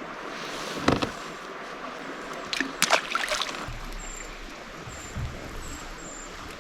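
Water lapping and splashing around a kayak, with a few sharp knocks or splashes about a second in and again around three seconds in.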